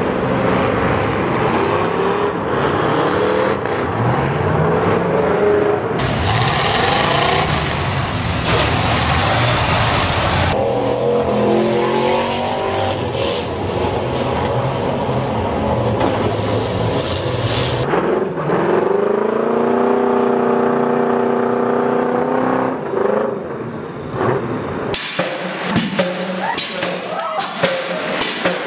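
Demolition derby car engines revving hard, pitch rising and falling again and again over a loud, dense din. One engine climbs and then holds a steady high rev for a few seconds. Near the end the engine noise drops away and gives way to a run of sharp knocks.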